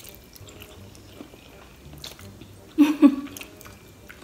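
Faint chewing of a mouthful of noodles with small soft clicks. About three seconds in comes a short, loud burst of a woman's voice.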